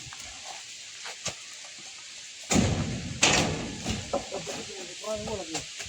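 Two heavy thuds about two and a half and three seconds in, each dying away over half a second: oil palm fruit bunches thrown down onto a load, with a few lighter knocks around them.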